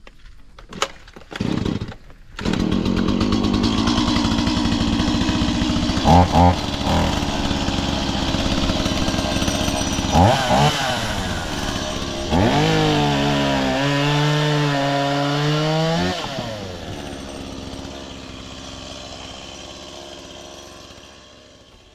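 Chainsaw running and cutting through a fallen tree, starting up about two seconds in. Its pitch drops and rises several times as it works, and the sound fades away over the last few seconds.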